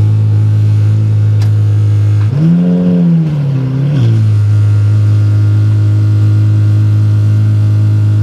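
Supercar engine running loud and close at steady revs, with one quick rev blip about two seconds in that rises in pitch and falls back within about a second and a half.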